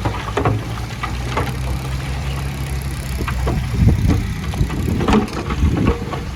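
Heavy diesel earthmoving machinery running steadily, with repeated knocks and clattering over the engine hum, the loudest about four seconds in and again about five seconds in.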